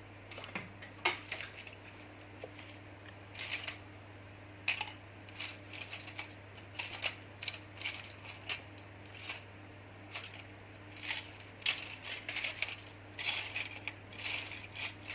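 Irregular small hard clicks and clinks of small metal and plastic phone parts being handled and rummaged through on a repair bench, thickening near the end, over a steady low hum.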